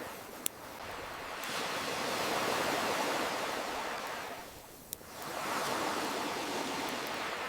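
Ocean waves washing in, the surf noise swelling and ebbing in two slow surges, with two sharp campfire crackles: one about half a second in and one in the lull about five seconds in.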